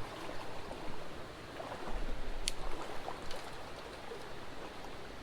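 Small creek running steadily, with one sharp click about two and a half seconds in.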